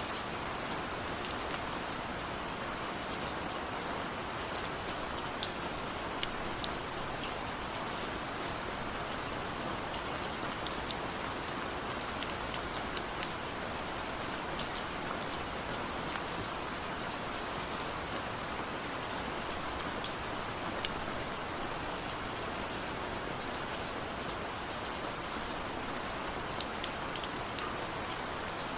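Steady rain falling, with scattered sharp taps of individual drops striking a surface.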